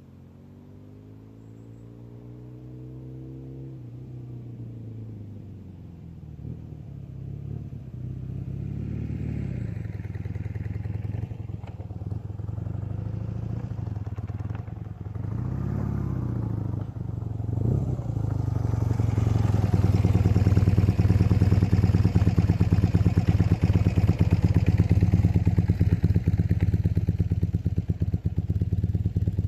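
BMW R80 air-cooled boxer twin running through a Hattech Cannonball exhaust, growing steadily louder over the first twenty seconds with a few rises and falls in engine speed midway, then running loud and steady near the end.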